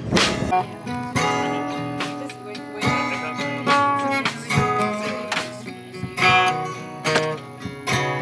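Acoustic guitar music: strummed chords and plucked notes ringing out one after another.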